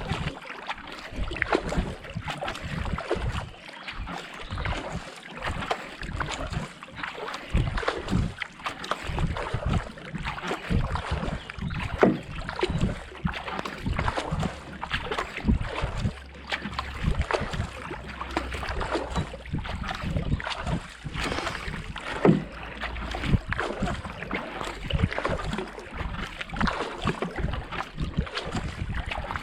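Racing kayak paddle blades dipping into and pulling through the water in a steady rhythm, at a rate of about 70–80 strokes a minute, with wind buffeting the microphone.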